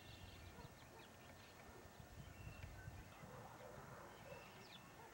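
Near silence: faint scattered bird chirps over a low background rumble.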